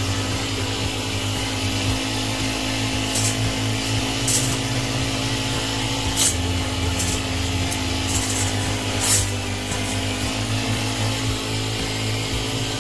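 Power trimmer motor running steadily, with short sharp crackles every second or two as it cuts through flower-bed shrubs.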